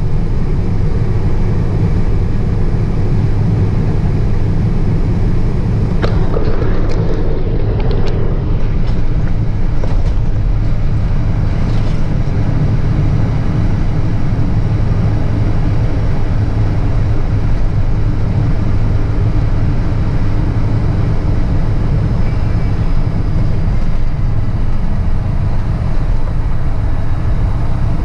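Truck's diesel engine idling steadily with a low hum, with a few brief clicks and rattles about six to twelve seconds in.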